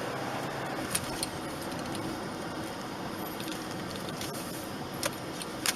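Steady road and engine noise inside a moving car's cabin, with a few short clicks.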